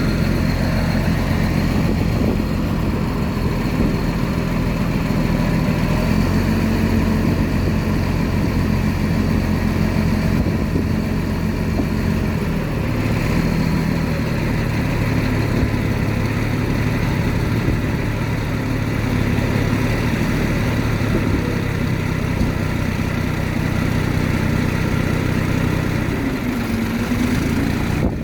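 Heavy diesel engine of earthmoving machinery running steadily, its pitch shifting about halfway through and gliding briefly near the end.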